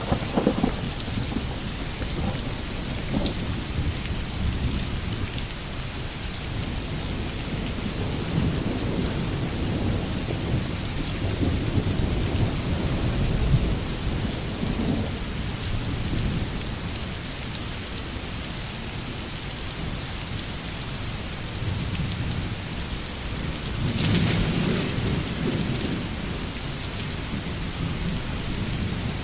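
Steady rain falling, with low rumbles of distant thunder rolling under it and one louder roll of thunder near the end.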